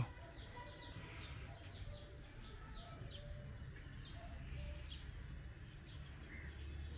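Birds chirping in many short falling notes, with a few short lower notes, over a faint low background rumble.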